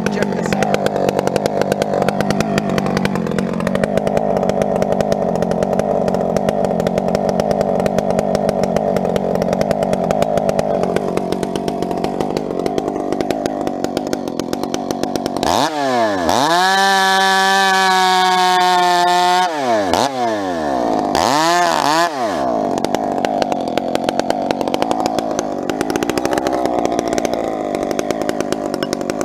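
Two-stroke chainsaw bucking firewood, running at a lower, labouring pitch while cutting for about fifteen seconds. It then revs up to a high held scream for about four seconds, blips once more, drops back into the cut and revs again at the end.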